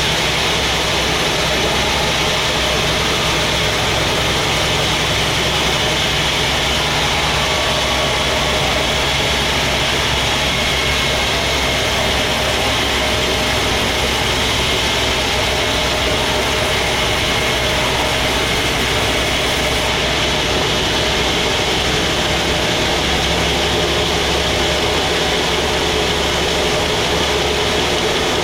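Sawmill machinery running steadily: a constant engine hum under an even hiss, with no break or change in level.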